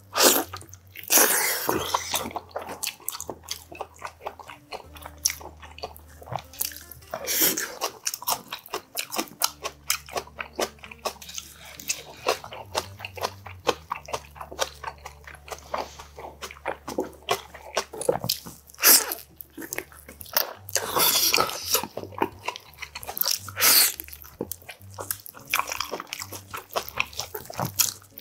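Close-miked eating: biting and chewing tender boiled beef oxtail pulled off the bone by hand, with a dense run of wet mouth clicks and smacks. There are louder bites and sucks several times.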